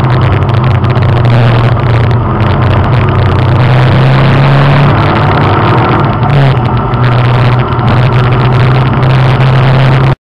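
Race car engine heard from inside the cabin, running loud and steady under load on the track. The sound cuts off suddenly near the end.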